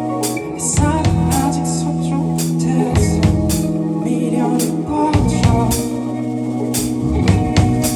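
Live band playing an instrumental passage: a drum kit beating out a steady rhythm under sustained keyboard chords and bass.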